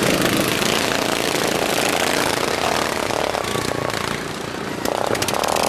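Racing lawn mowers' single-cylinder overhead-valve engines running, dipping a little in loudness and then rising again about five seconds in.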